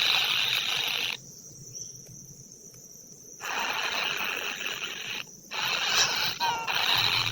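Insects buzzing in a loud, even hiss that stops abruptly about a second in, returns after about two seconds, and drops out once more briefly near the end.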